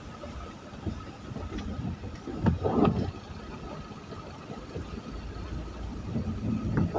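Road traffic on a rain-wet road: vehicles passing with engine and tyre noise, with one louder pass about halfway through and another near the end.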